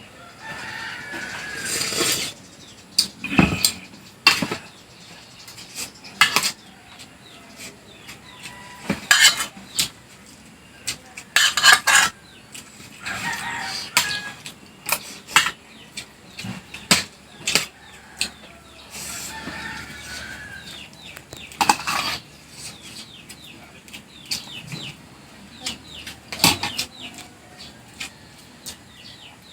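Spoon and fork clinking and scraping against a plate while eating, in scattered sharp clicks with short quieter stretches between.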